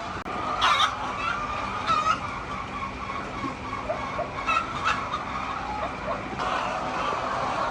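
A flock of chickens clucking and calling, with several sharp louder squawks scattered through, over a faint steady low hum.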